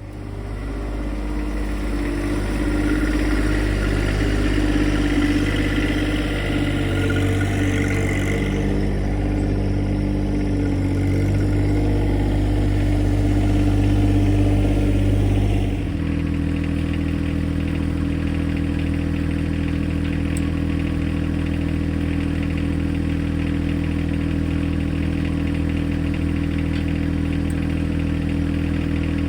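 John Deere 2025R compact tractor's three-cylinder diesel engine running. About sixteen seconds in, the sound changes abruptly to a steadier, even hum.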